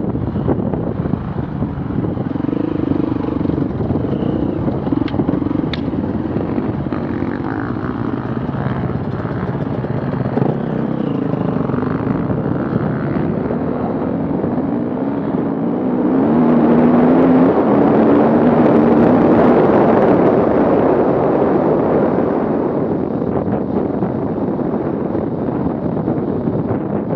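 Off-road vehicle engine running and revving on the course, its pitch rising and falling. It grows louder a little past the middle for about five seconds, then eases off.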